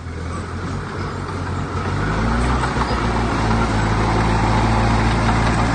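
Heavy diesel earthmoving machine's engine running under load, growing louder and heavier about two seconds in.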